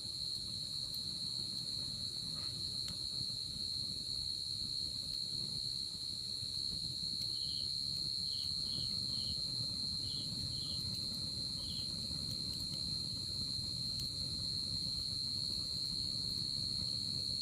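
Night insects singing: a steady, unbroken high cricket trill, joined about halfway through by a second insect's short chirps, about seven in a row. A few faint crackles come from a wood fire burning in a fire pit.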